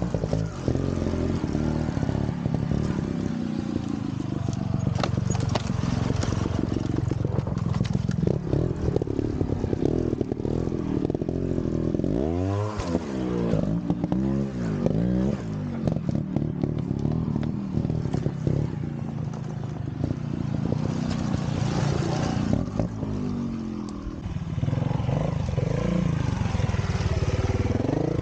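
Vintage trials motorcycle engine running, with repeated quick throttle blips: the engine note rises and falls several times in the middle of the stretch.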